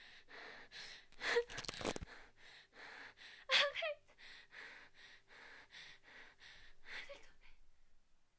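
A frightened girl breathing in rapid, panicked gasps, about two a second, with a short whimpering cry about three and a half seconds in. The gasping stops abruptly shortly before the end.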